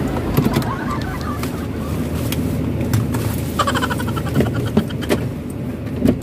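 A car idling at a standstill, heard from inside the cabin as a steady rumble, with scattered light clicks and a brief rapid chirp about three and a half seconds in.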